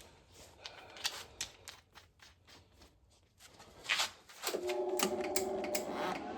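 Wire-feed welder being threaded with new wire: a run of sharp clicks and snips, then about four and a half seconds in a steady multi-tone whine as the wire-feed motor drives the wire through to the gun, with more clicks over it.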